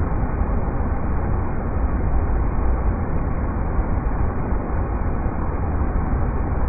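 River rapids rushing in a steady, unbroken wash, deep and muffled with no high hiss.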